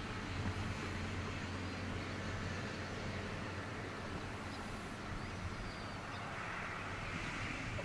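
Distant Kintetsu Series 21000 Urban Liner electric express train running along the line, a steady low rumble.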